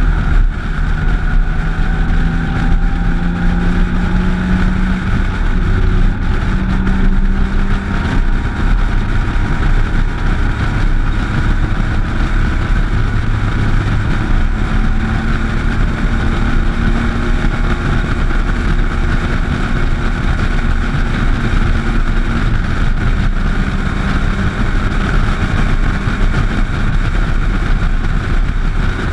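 Motorcycle engine running at cruising speed on the open road, its note drifting slightly up and down with the throttle, over a steady rush of wind and road noise.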